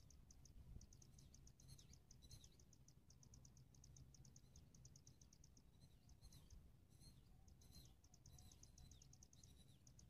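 Faint high-pitched chirping of small birds: quick trains of short chirps, about ten a second, broken by pauses, with a few short falling chirps mixed in, over a low steady rumble.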